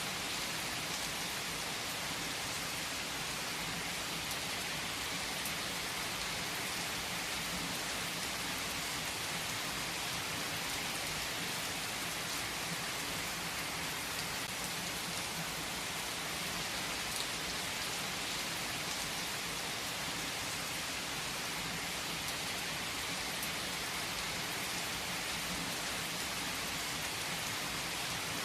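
Steady rain: an even hiss of falling rain with faint scattered sharper drop ticks, unchanging throughout.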